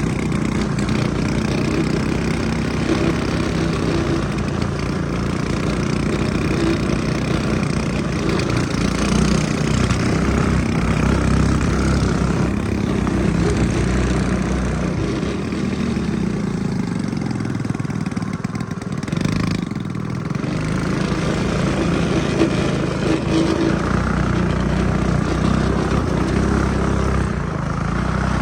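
Small gasoline engine of a homemade off-road vehicle running, its speed going up and down as it is ridden, with a brief dip in level about two thirds of the way through.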